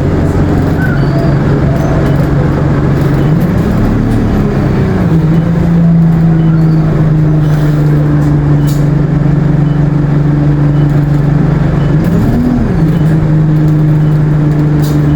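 ADL Enviro 200 bus running under way, a steady engine drone with the turbo whine and Allison automatic gearbox of the title. Its pitch rises briefly and falls back twice, about four seconds in and again near the end.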